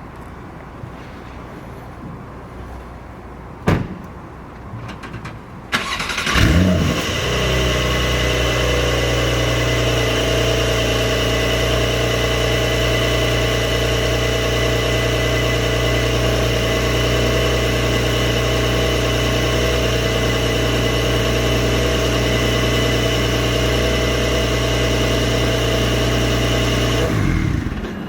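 2024 Porsche 911 Carrera S twin-turbo 3.0-litre flat-six started from cold: a click, then the starter cranks and the engine catches with a brief flare in revs. It settles into a steady, even cold-start idle for about twenty seconds and is switched off near the end.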